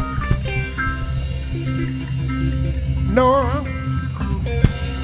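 Gospel band playing between sung lines: the lead guitar picks a short run of notes over bass guitar and drums. A singer's voice holds a wavering note about three seconds in, and a sharp drum hit comes near the end.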